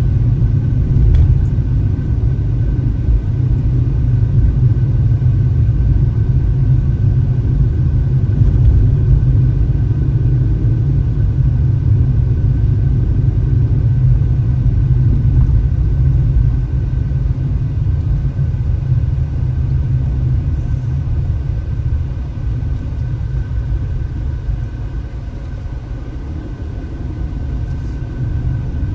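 A car being driven, with a steady low rumble of engine and road noise that eases off a little in the second half.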